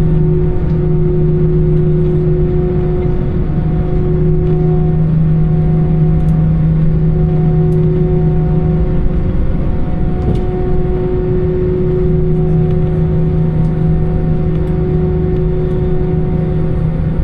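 Airbus A320 engines and airflow heard inside the passenger cabin: a loud, steady drone, a low rumble with several even hum tones held over it.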